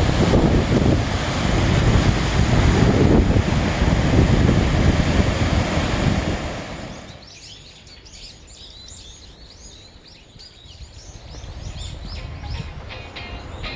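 Wind buffeting the microphone over sea waves washing, loud for about the first six seconds and then dying away. Fainter high, repeated sounds follow, and music starts near the end.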